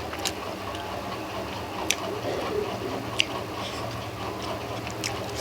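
Steady hum of an electric fan running in the room, with about four sharp clicks spread through from eating at a plate.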